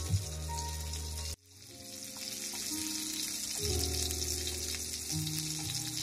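Food sizzling and frying in a miniature pan, a steady crackling hiss. About a second and a half in, it cuts out suddenly and then swells back up.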